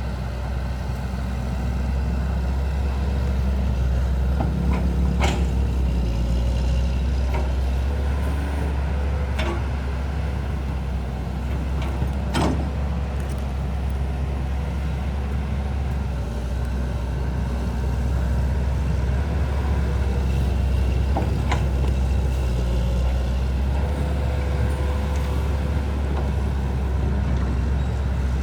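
Engine running steadily with a low hum, with a few sharp knocks scattered through.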